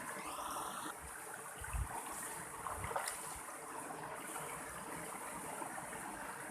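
Mountain stream flowing steadily over rocks, an even rushing and babbling of water. A brief gliding, whistle-like tone sounds in the first second, and a single sharp tick comes about three seconds in.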